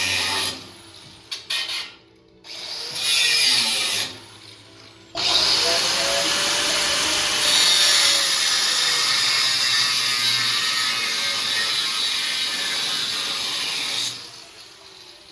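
A power tool run in a few short bursts, then held on steadily for about nine seconds before it stops near the end.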